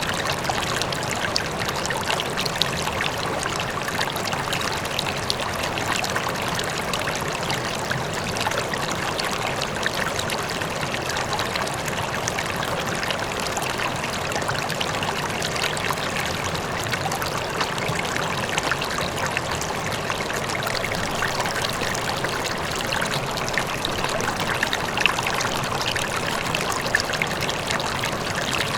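River flowing steadily, a continuous rush of water with fine splashing and trickling over rocks; a faint waterfall in the distance blends into the wash.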